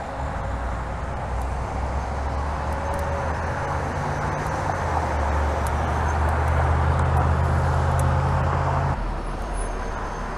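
Wind rushing on the microphone with the rumble of a bicycle in motion, rising in loudness and then dropping abruptly about nine seconds in.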